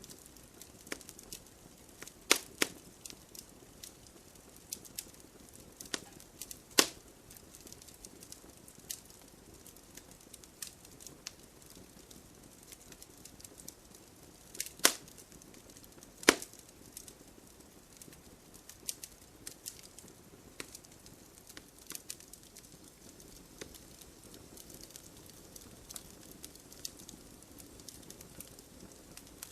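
Wood fire crackling: irregular sharp pops and snaps over a low, steady hiss, with a few louder pops scattered through.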